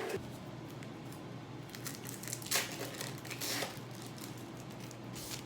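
A few short crinkling rustles of something being handled, heard at about two, two and a half, three and a half and five seconds in, over a quiet room background.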